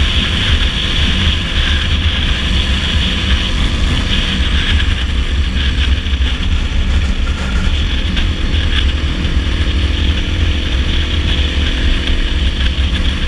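Dirt bike engine running steadily at road speed, with a heavy low rumble of wind on the microphone.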